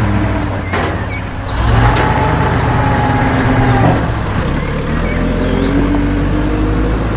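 Truck engine sound running with a steady low hum. A held higher tone sits over it for a couple of seconds in the middle.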